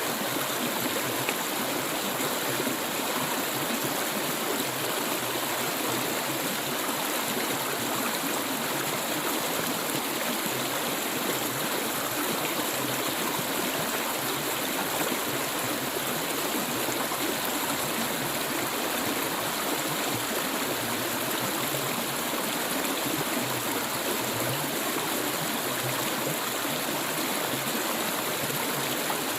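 Stream of clear water flowing steadily, a constant rushing and babbling with no breaks.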